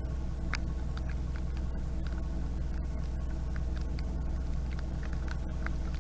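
Narrowboat's diesel engine running steadily with a low hum, while raindrops tap irregularly on the camera in short sharp ticks.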